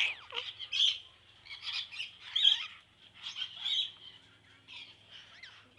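Parakeets chirping: many short, irregular chirps from a flock.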